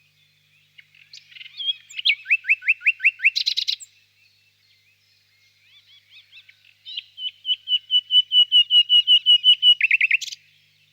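Nightingale singing: two loud phrases, each a fast run of repeated whistled notes ending in a short rattling flourish, with a pause of a few seconds between them.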